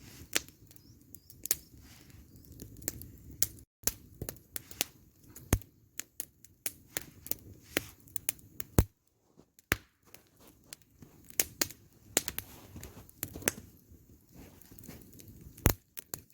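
Wood campfire burning, crackling with many sharp, irregular pops and snaps.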